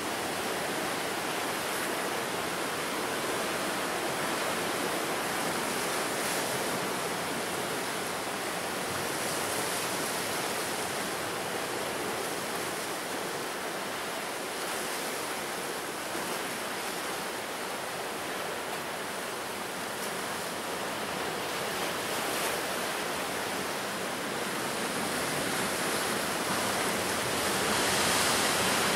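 Sea surf washing onto the shore, a continuous rushing wash that swells and ebbs, growing louder near the end as a bigger wave breaks.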